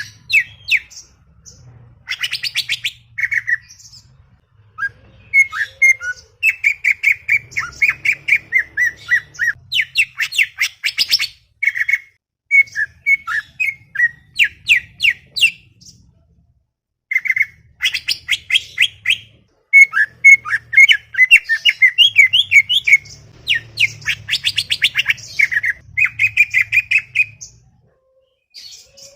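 Greater green leafbird (cucak ijo) singing a fast, chattering song of rapid chirps and whistled notes in bursts of a few seconds, with short pauses between phrases.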